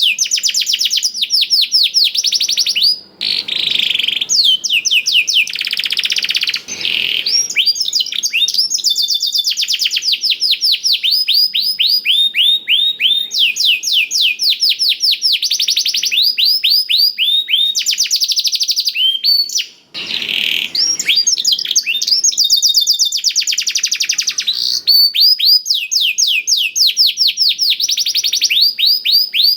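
A domestic canary singing a long, loud song of fast trills: rolls of rapidly repeated downward-sweeping notes, the song filled with phrases learned from a blackthroat (black-throated canary). It pauses briefly twice, about three seconds in and about twenty seconds in.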